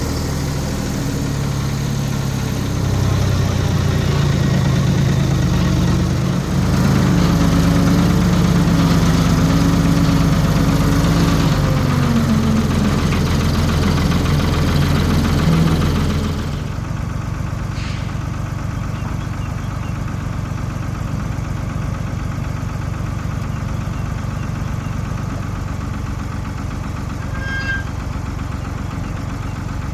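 Ford 4500 industrial backhoe's diesel engine running. A few seconds in it speeds up and works harder, its pitch wavering, then about halfway through it drops back to a steady idle.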